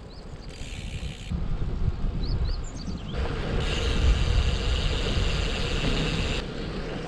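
Riding a road bike: wind on the microphone and road rumble, with a few short high chirps near the start and about two seconds in. A high hiss or buzz sets in about three seconds in and stops about six and a half seconds in.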